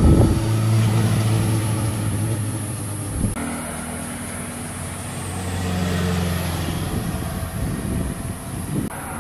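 Motorcycle engines running as they pass on a road, with an abrupt change in the sound about three seconds in, then a steady engine note that swells and fades before rougher engine sound near the end.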